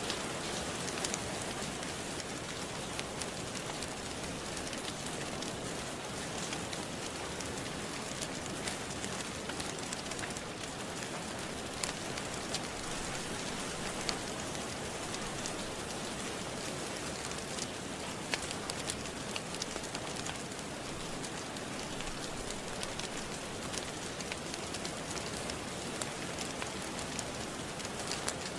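Steady rain, a dense even hiss, with scattered sharp crackles and pops from a wood fire burning in a fireplace.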